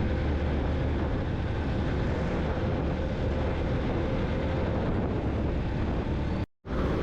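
Yamaha motorcycle running steadily at highway speed, engine drone mixed with wind rushing over the microphone. The sound cuts out completely for a moment near the end.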